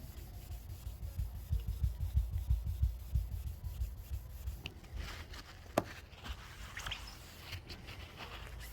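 Hand wet-sanding of car paintwork with fine wet-and-dry paper on a small block: quick back-and-forth rubbing strokes, about four a second, easing off after about three and a half seconds. A single sharp click comes about six seconds in.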